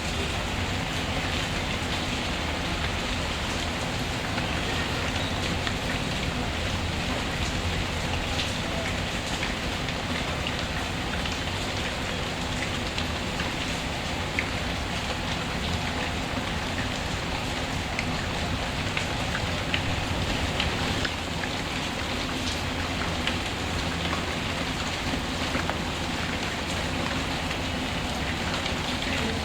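Steady rain falling, with scattered small crackles from a wood fire.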